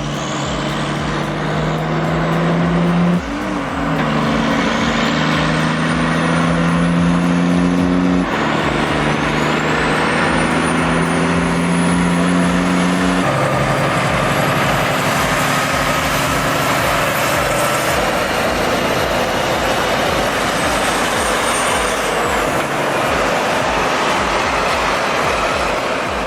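Heavy truck's diesel engine pulling hard through the gears. Its note drops at each upshift, about 3, 8 and 13 seconds in, and a high whistle climbs with each gear.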